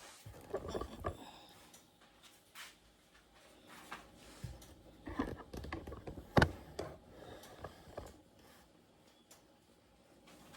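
Dumpling dough being cut into squares on a board: a series of light scrapes, taps and knocks of the blade, with one sharper knock about two-thirds of the way in.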